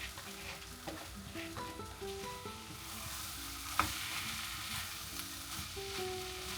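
Food sizzling in a frying pan while being stirred, with one sharp knock about four seconds in. Background music with a slow melody plays over it.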